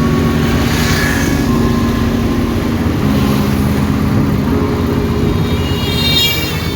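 Motor vehicle engine running steadily, its low hum stepping in pitch a couple of times as the engine speed changes, with a brief high squeal near the end.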